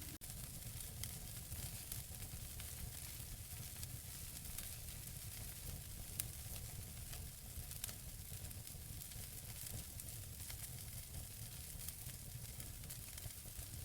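Wood fire burning in a fireplace: a steady low rumble under a soft hiss, with scattered small crackles from the burning logs and one sharper pop about six seconds in.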